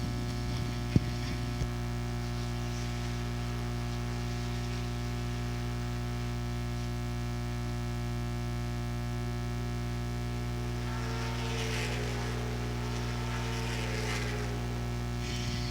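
Steady electrical mains hum on the audio feed, a stack of even buzzing tones that never changes. About eleven seconds in, a faint wavering sound rises and falls beneath it for a few seconds.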